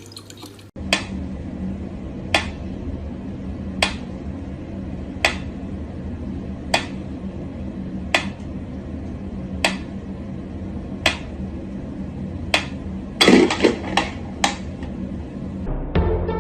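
Sharp clicks of something hard being tapped, evenly spaced about one every second and a half, then a quick flurry of several near the end, over a steady low hum.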